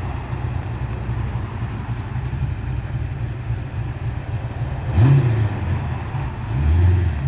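Holden's modified engine running with a lumpy, cammy idle, blipped sharply about five seconds in and revved up again near the end.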